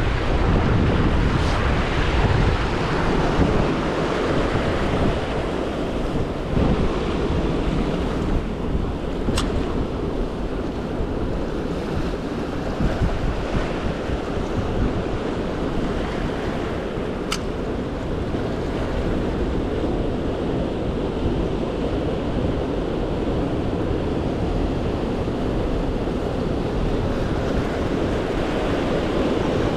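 Ocean surf washing steadily, with wind buffeting the microphone as a low rumble. Two brief sharp clicks stand out, about nine and seventeen seconds in.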